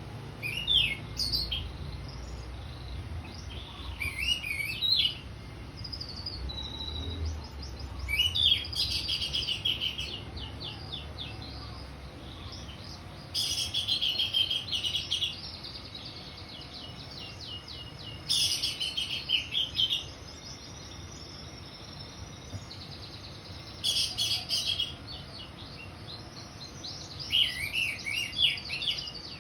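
Orange-headed thrush singing in full voice: about seven loud phrases of fast, varied notes, each a second or two long and a few seconds apart, with softer twittering in between.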